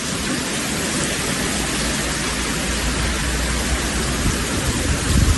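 Storm noise: a steady rush of wind and rain, with a low rumble that swells near the end.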